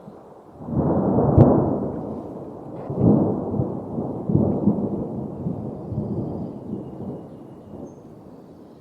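Thunder rumbling: a rolling low rumble that swells about a second in, again around three seconds, and then dies away gradually.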